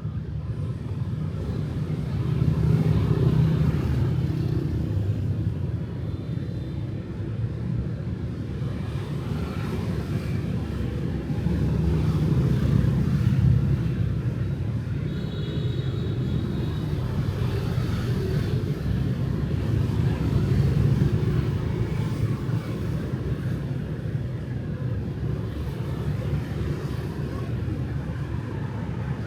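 Street traffic with motorbikes and cars going by: a steady low rumble of engines and tyres that swells three times as vehicles pass close.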